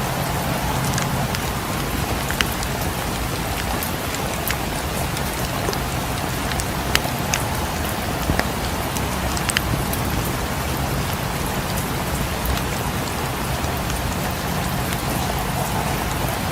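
Steady rain falling, mixed with a fireplace crackling: a few sharp pops scattered through the even hiss of the rain.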